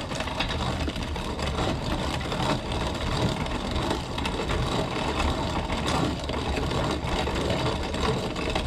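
Antique hand-cranked corn grinder crushing whole dried corn kernels as its wheel is turned, a steady run of dense crunching, crackling and rattling.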